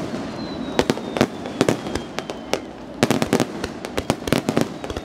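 Fireworks display: an irregular string of sharp bangs and crackling reports from shells and comets launching and bursting, over a steady rumble. A faint high whistle slides slowly down in pitch during the first couple of seconds.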